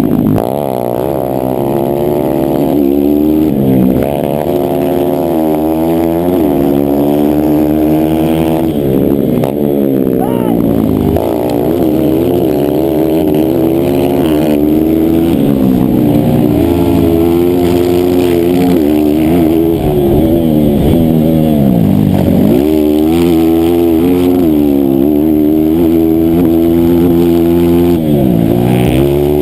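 A 160cc racing motorcycle engine revving hard, its pitch climbing and dropping again and again as it is shifted through the gears.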